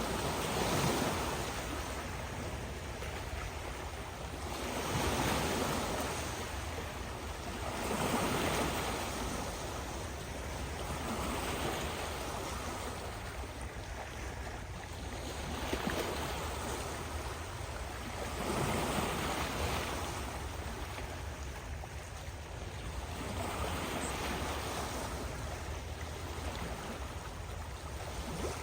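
Ocean surf: waves breaking and washing in, one surge after another every three to four seconds.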